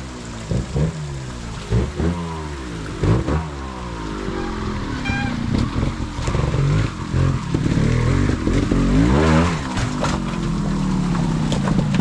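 Trials motorcycle engine revving in short quick blips, then running on with the revs wavering, with a sharp rise and drop in revs a little before the end before settling to a steadier note.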